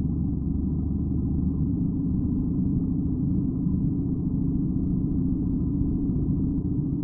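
BMW R75 motorcycle's flat-twin engine running, a steady low drone.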